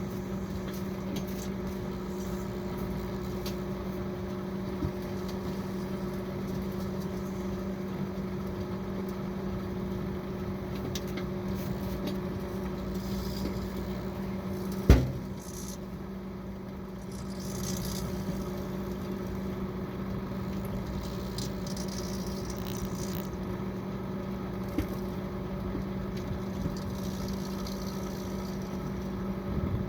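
Microwave oven running with a steady low hum, broken by one sharp, loud pop about halfway through and a few faint ticks.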